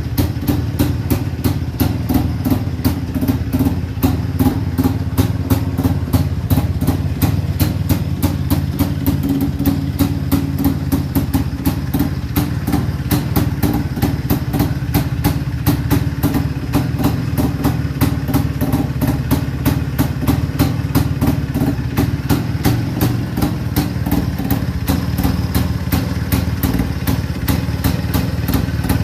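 Single-cylinder two-stroke engine of a restored 1957 IZh-49 motorcycle running steadily at idle, with an even, regular pulsing beat.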